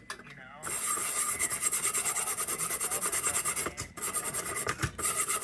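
Rapid back-and-forth hand scrubbing on the metal of an old kerosene heater, about eight strokes a second, starting about half a second in, with two short breaks near the end.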